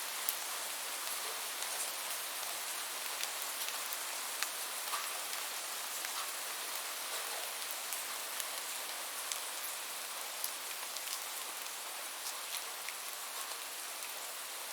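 Steady rain falling: an even hiss with many scattered sharp drop impacts.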